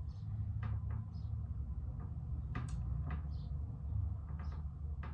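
Socket ratchet on a lawn mower blade bolt during the last tightening, giving a few scattered, irregular clicks and knocks as the bolt reaches snug. A steady low hum sits underneath.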